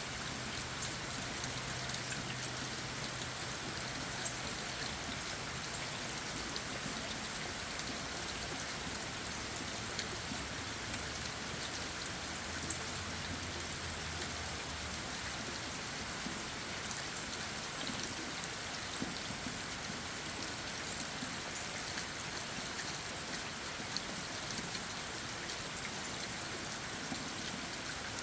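Steady rain falling on leaves and ground, with many separate drops tapping.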